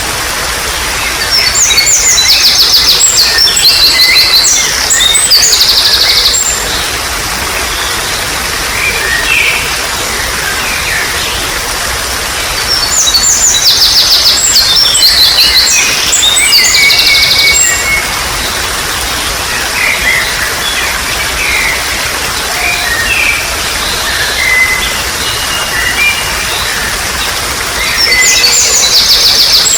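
Songbird singing loud spells of rapid high chirps and notes, three long phrases about twelve seconds apart, with scattered quieter calls between, over a steady trickle of running water.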